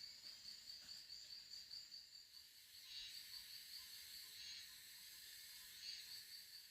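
Faint, steady insect chirring, a high, pulsing trill with a hiss of other insects above it.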